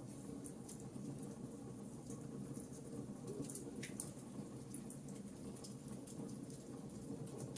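Wood fire crackling in a fireplace: a steady low rush of burning with scattered small sharp pops and snaps, one slightly stronger pop about four seconds in.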